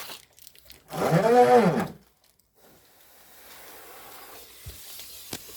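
A person's voice: one drawn-out wordless exclamation about a second in, its pitch rising then falling. A faint steady hiss and a single sharp click follow near the end.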